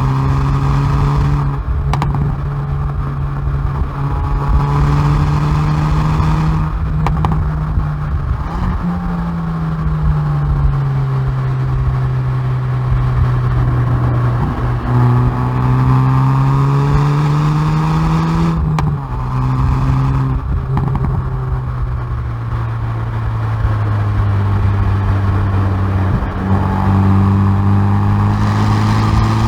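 Hyundai i30N Performance's turbocharged 2.0-litre four-cylinder exhaust under hard track driving. The note climbs and sinks with engine speed, with several sudden drops in pitch at gear changes and a few short cracks, over a steady rush of road and wind noise at the rear bumper.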